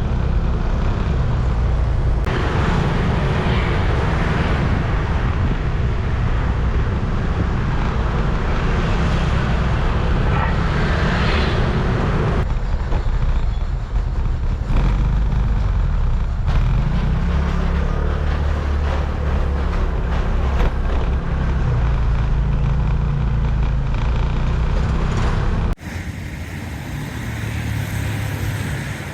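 Scooter engine running under load with heavy wind noise while riding, its pitch rising and falling. The engine is running rough, which the rider puts down to a lean mixture at high elevation. Near the end the sound drops suddenly to quieter road traffic.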